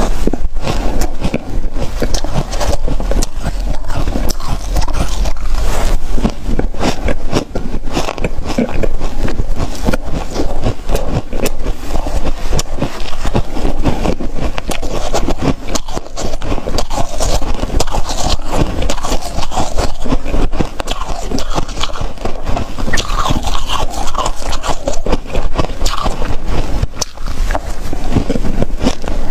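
Ice being bitten and chewed close to the microphone: a dense, unbroken run of crunching and crackling.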